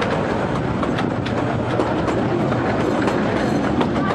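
Kurobe Gorge Railway's narrow-gauge (762 mm) open trolley train running along the track, heard from aboard an open car: a steady rumble of wheels on rail with frequent short, sharp clicks at uneven spacing.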